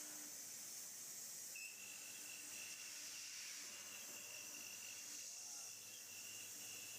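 CNC high-speed milling machine running: a faint, steady hiss with a thin, high, steady whine that comes in about a second and a half in.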